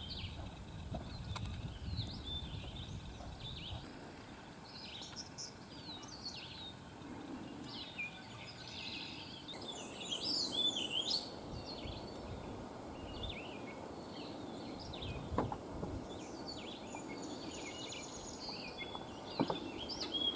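Several songbirds singing and chirping, many short high calls overlapping, over a faint low rumble.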